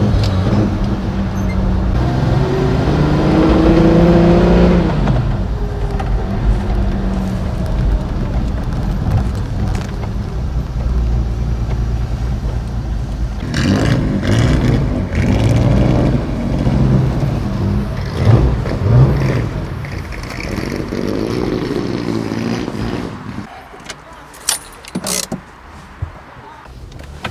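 Mercedes-Benz Ponton 220A's straight-six engine running as the car drives, heard from inside the cabin. About two seconds in, the engine note rises as it accelerates, then falls. Near the end it drops much quieter, with a few sharp clicks.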